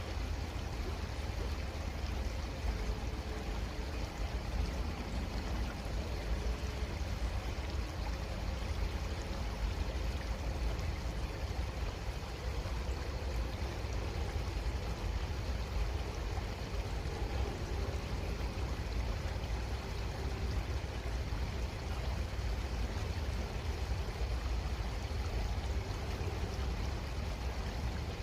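Creek water flowing steadily, an even rush and trickle with a strong low rumble underneath.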